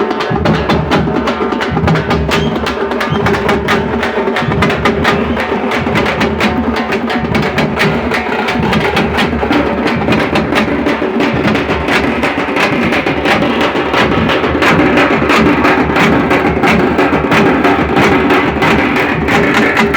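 Tamte (tamate) folk frame drums beaten with sticks in a fast, dense, unbroken rhythm.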